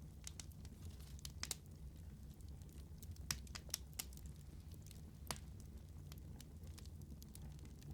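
Wood fire crackling: irregular sharp pops and snaps, the loudest a few seconds in, over a low steady rumble.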